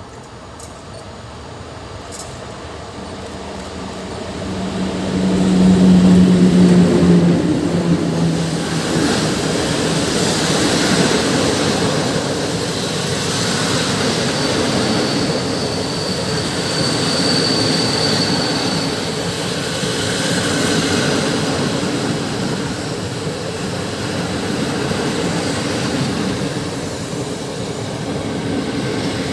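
EP09 electric locomotive hauling a passenger train past at speed. A low hum grows loud and drops in pitch about seven seconds in as the locomotive goes by, followed by the steady rolling rush of the coaches, with a thin high wheel squeal for a few seconds midway.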